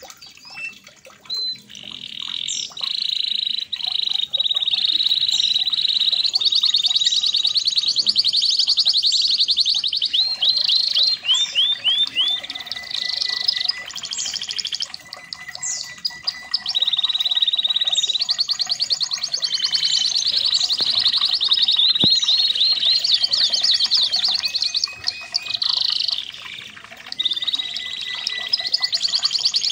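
Male red factor canary singing a long, continuous song of fast trills and rolls, high-pitched, with brief pauses between phrases.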